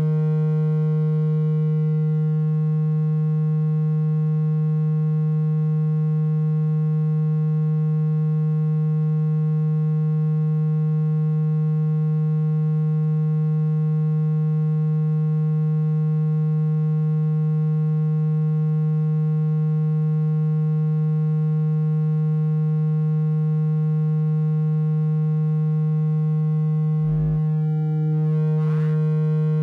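Steady low electronic tone, a single pitch of about 160 Hz with faint overtones, played to make a phone speaker vibrate and shake water out of it. A short click and a slight change in the tone come near the end.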